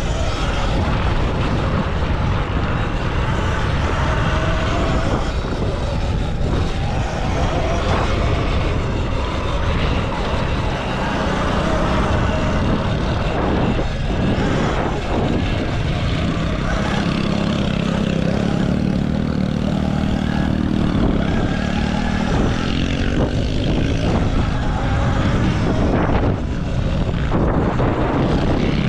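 Wind rushing over the mic of a full-electric motocross bike ridden flat out on a dirt track. A low hum swells in about two-thirds of the way through and again near the end.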